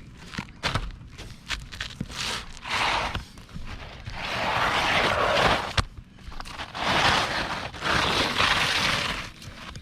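Scraping and crunching on roof shingles as they are worked by hand, in three drawn-out strokes with scattered sharp clicks between them.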